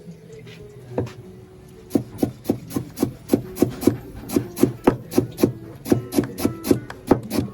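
Rhythmic strokes on a wooden board, about three to four a second from about two seconds in, over quiet background music.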